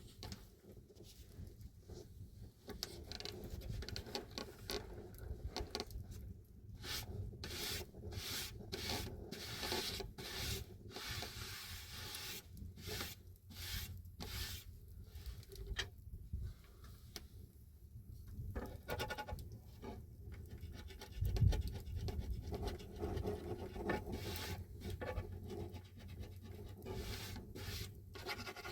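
Repeated irregular scraping and rubbing strokes, some in quick runs, over a low background rumble.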